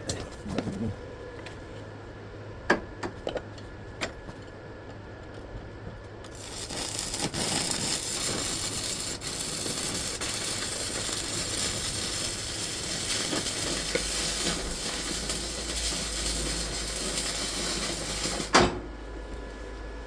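A few light clicks and taps, then an ESAB Handyarc stick (shielded metal arc) welder's arc burning with a steady crackling hiss for about twelve seconds. It breaks off suddenly with a sharp knock.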